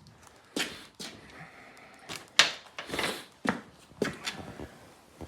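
A series of separate sharp clicks and knocks from hands working the motorcycle's key and controls, the loudest about two and a half seconds in, with a short hiss just after it. The engine is not running.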